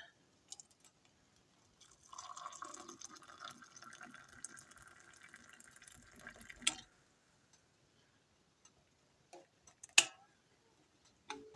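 Hot water being poured for tea for about five seconds, then a sharp clunk; another short knock a few seconds later.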